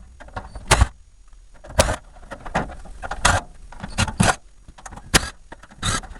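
A string of irregular knocks and clatters from hand tools and the plastic casing of a mini fridge being handled while it is taken apart.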